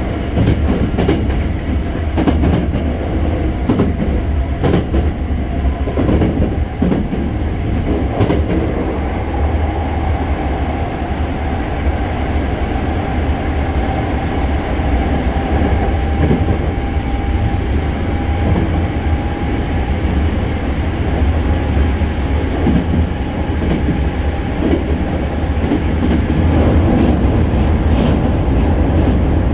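Running sound of a Hankyu 6300-series train heard from inside a passenger car: a steady rumble of wheels on rail with scattered sharp clicks. A faint whine rises slightly in pitch through the middle, and the noise grows louder near the end.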